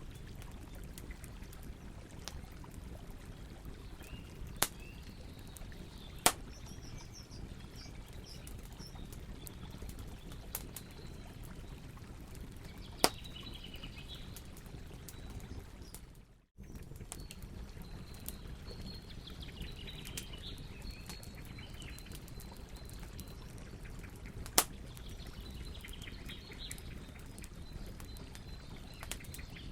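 Campfire burning with a steady low rush, frequent small crackles and a few sharp, loud pops, while birds chirp in the background. The sound drops out for a moment about halfway through.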